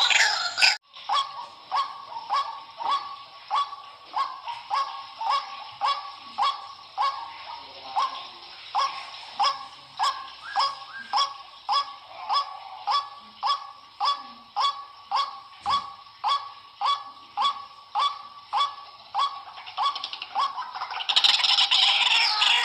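White-breasted waterhen calling: a steady, even series of short notes, about two a second. A louder, jumbled chorus of harsh calls is there at the start and starts again near the end.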